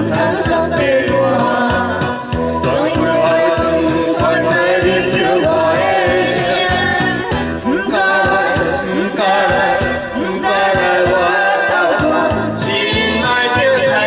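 A group of people singing along together to a karaoke backing track with a steady beat.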